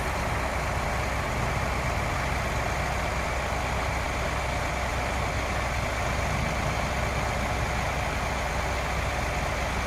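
Heavy diesel truck engines of a concrete pump truck and ready-mix truck running steadily, with a constant low hum.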